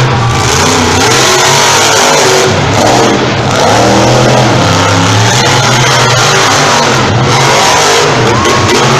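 Two monster trucks, Bigfoot and Titan, racing each other at full throttle, their supercharged V8 engines revving loudly and rising and falling in pitch through the run.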